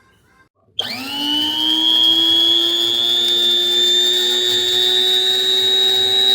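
Kaffe electric blade coffee grinder's motor switched on about a second in, spinning up with a quickly rising whine, then running loudly at a steady high pitch.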